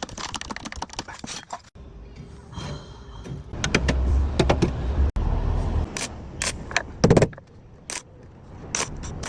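Workshop metalwork noises: a string of irregular clanks and knocks, with a heavy low rumble through the middle and a short, loud clatter about seven seconds in.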